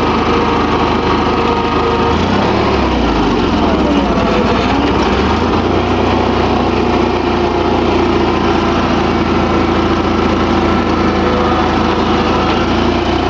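Small engine of a Simplicity (Allis-Chalmers) garden tractor running steadily as the tractor drives forward in its low gear. Its low note wavers between about two and five seconds in, then holds steady.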